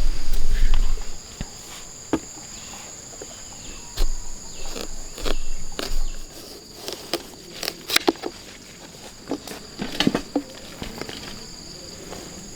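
Insects calling in two steady high-pitched tones throughout, with irregular sharp clicks and knocks over them and a brief low rumble near the start and again about four seconds in.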